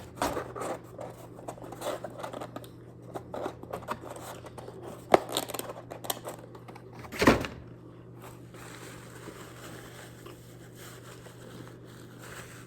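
Rustling and crinkling handling noises with scattered clicks, a sharp click about five seconds in and a thump about seven seconds in, over a steady low hum.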